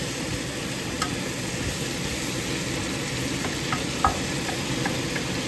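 Onion frying in a pan: a steady sizzle, with a few light clicks, the loudest about four seconds in.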